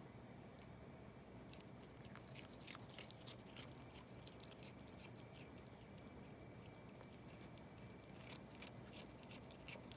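Faint, crisp, irregular clicking of a cat chewing mizuna leaves, in two runs: one from about a second and a half in, and another near the end.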